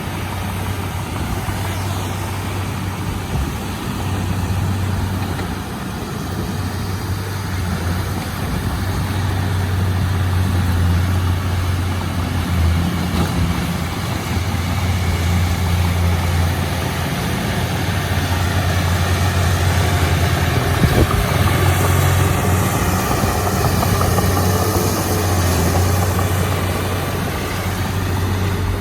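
Diesel engine of a Komatsu D31P crawler bulldozer running steadily while the machine works, with a steady low hum. Near the end, higher sweeping tones rise and fall over the engine sound.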